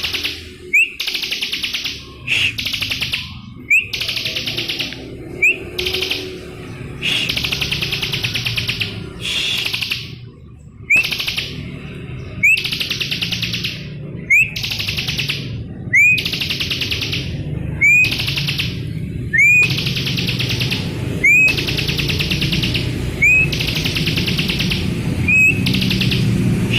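Bar-winged prinia (ciblek) singing loudly: a phrase repeated every second or two, each a sharp rising note followed by a fast, rattling trill.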